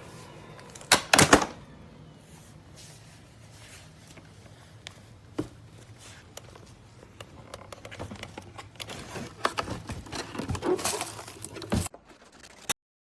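A series of sharp clicks and knocks, like hard plastic parts being handled, over a faint low hum. There are two loud clicks about a second in and a cluster of them near the end, then the sound cuts off abruptly.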